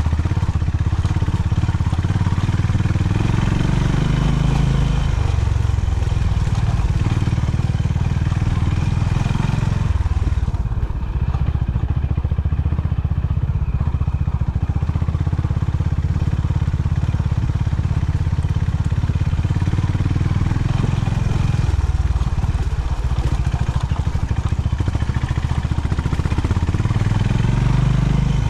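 Honda CB350 H'ness motorcycle's single-cylinder engine running as the bike is ridden, the engine note rising and falling through the ride.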